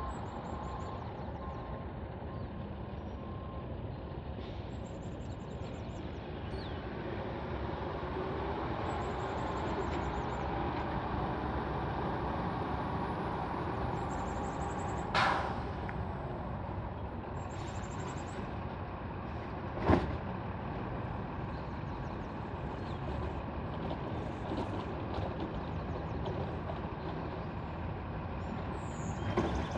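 Garbage truck's diesel engine running, its reversing beeper sounding for the first few seconds. About halfway there is a short hiss of air, then a sharp bang about two thirds of the way in.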